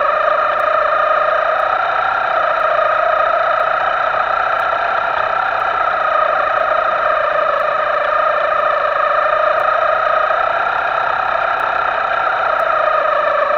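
Electric motor of a Himoto RC boat whining at steady high speed, its pitch holding with slight wavers.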